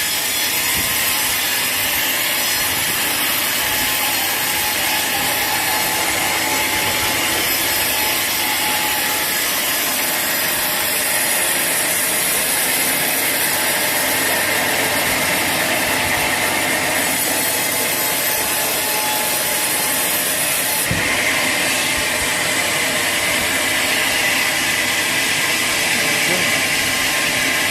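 Sawmill saw cutting through a teak log: a steady, dense noise of the blade in the wood, which shifts abruptly in tone about 21 seconds in.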